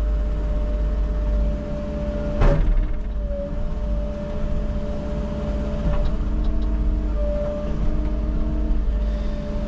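Engine of a bucket-equipped digging machine running steadily, with one sharp clank about two and a half seconds in.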